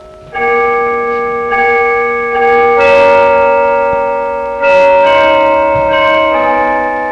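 Bells struck one note at a time in a slow tune, about eight notes, each ringing on under the next.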